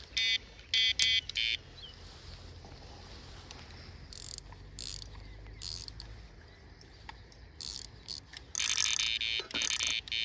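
Electronic carp bite alarm sounding in short bursts of rapid high beeps: a few quick bursts in the first second and a half, then a longer run near the end, with a few sharp clicks between.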